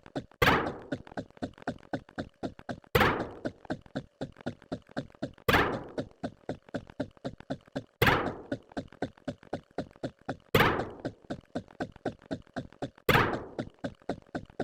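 A fast, even run of short knocks, about five a second, with a louder thump every two and a half seconds, repeating like a mechanical rhythm.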